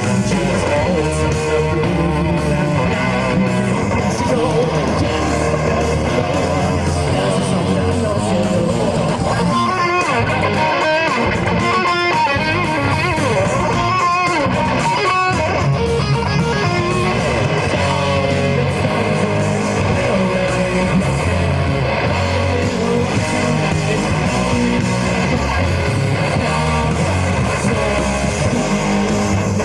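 Live rock band playing an instrumental passage with electric guitars and bass. About ten seconds in the low end drops away and a guitar line stands out on its own for several seconds, then the full band comes back in.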